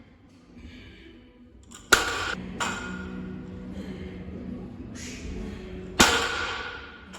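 Metal gym weights clanking twice, about four seconds apart, each sharp clank ringing briefly afterwards.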